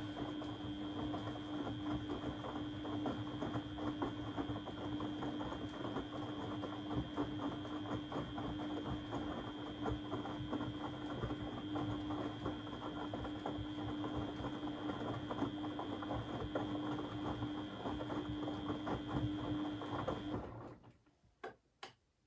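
Beko WMB 71643 PTE washing machine running with a steady hum over a dense, rapid rattling and sloshing noise, which cuts off abruptly near the end, followed by two short clicks.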